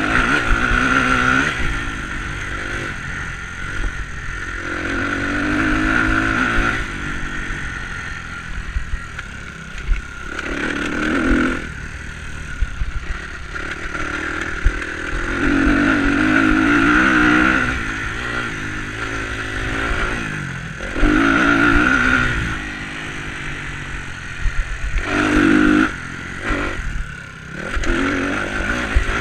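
Off-road motorcycle engine opening up and backing off again and again, about six times in a row, as the bike is ridden over an enduro track, with some clattering over the top.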